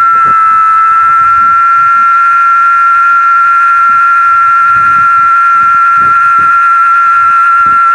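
Cicada singing a loud, steady, whistle-like tone that holds one pitch.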